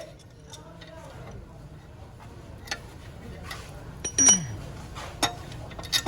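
Metal tools and parts clinking and knocking: a handful of separate sharp strikes, the loudest about four seconds in with a short ring.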